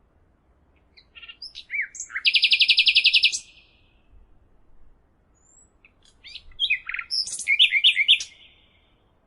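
A small songbird singing two phrases of quick high notes, the first ending in a fast trill of rapidly repeated notes lasting about a second.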